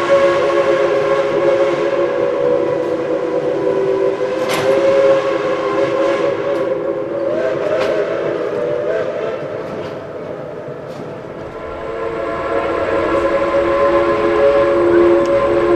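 Steam locomotive's chime whistle held in one long, steady chord of several tones, softening about two-thirds of the way through, then swelling again near the end.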